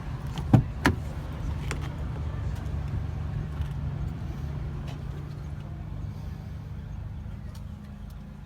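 SEAT Leon Cupra 300's 2.0-litre turbocharged four-cylinder idling steadily, with two sharp knocks a little over half a second in.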